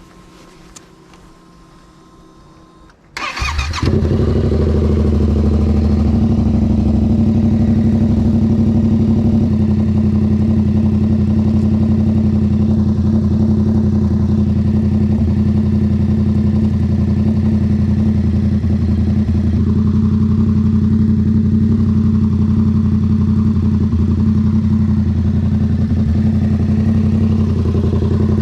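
Yamaha MT-07's 689 cc parallel-twin engine through a Toce full exhaust, started up: a brief crank about three seconds in, then it catches and settles into a loud, steady idle.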